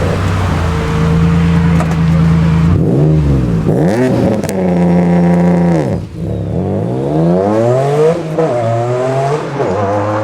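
Modified performance car engine revving hard: held at high revs for a couple of seconds, then dropping and climbing again several times in quick sweeps.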